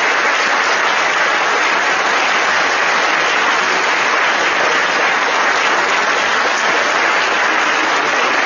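Audience applauding in a hall, a dense, steady sound of many hands clapping that keeps going without letting up.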